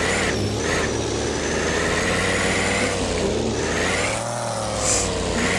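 Old tow truck's engine running while driving, its pitch slowly rising and falling with engine speed.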